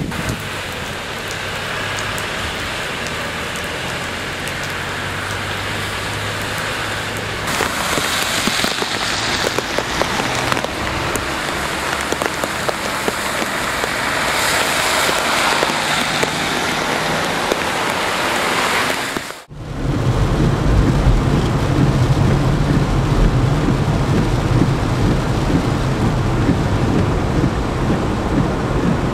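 Rain falling steadily with thunder rumbling. About two-thirds of the way in the sound cuts off abruptly, then a louder, deeper rumble of thunder and rain takes over.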